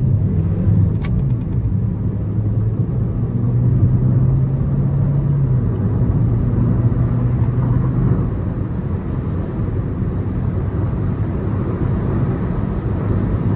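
2017 Chevrolet Cruze's 1.4-litre turbocharged four-cylinder engine accelerating under throttle, heard from inside the car, with steady road and tyre noise. The engine tone is strongest for the first several seconds, then eases back into a steady rumble.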